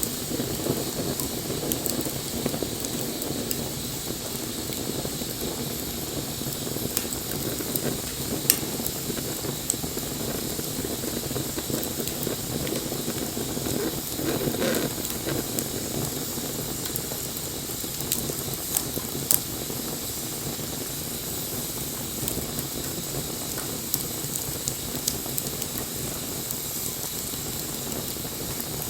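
Wood fire burning with a steady hiss and scattered sharp crackles and pops from the burning wood, a few of them louder than the rest.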